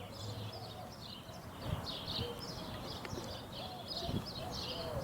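Small birds chirping: a steady run of short, high notes, about two to three a second, with a few lower rising calls mixed in.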